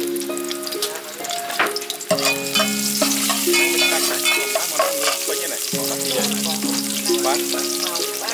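Chopped aromatics sizzling in hot oil in an aluminium pot, stirred with a metal ladle that clicks and scrapes against the pot; the sizzle grows louder about two seconds in. A looping background tune plays along with it.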